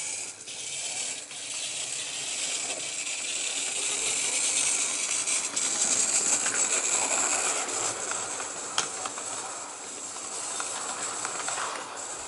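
OO gauge model steam locomotive running past on its track, its small motor and wheels making a steady high rushing noise that grows louder, then fades, with a few light clicks over the rail joints.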